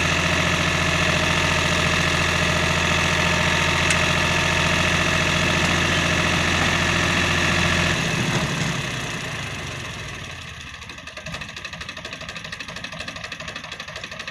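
Powertrac 439 tractor's diesel engine running steadily at raised revs. About eight seconds in it drops away over a couple of seconds to a quieter, pulsing idle.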